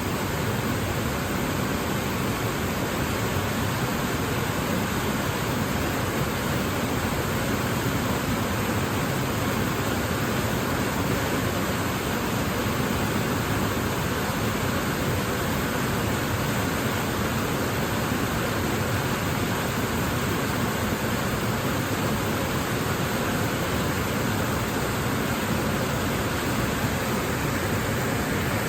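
Waterfall rushing, a steady, even roar of falling water that stays the same throughout.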